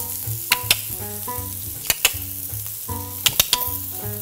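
Scrambled eggs and pork sausages sizzling on a griddle: a steady frying hiss with several sharp pops of spitting fat. A background music track with a stepping bass line plays under it.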